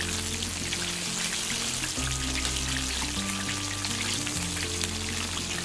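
Chicken wings deep-frying in hot oil in a pan: a steady, dense crackling sizzle, over background music.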